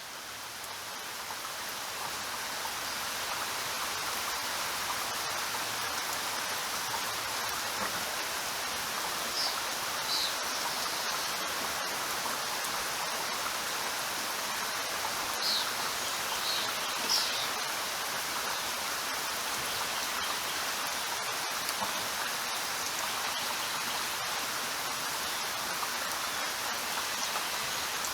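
Steady, dense rainfall, swelling in over the first few seconds and then holding even. A few brief high chirps sound faintly through it near the middle.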